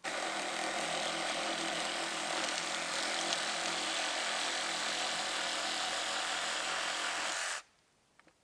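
A power tool's motor running steadily, cutting off suddenly after about seven and a half seconds.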